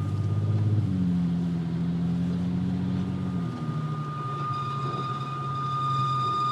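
Steady high-pitched squeal from a MkV Volkswagen R32 on the move, over the drone of its VR6 engine, whose pitch changes twice. The squeal fades a little partway through and comes back stronger near the end; the driver takes it for metal rubbing in the brakes.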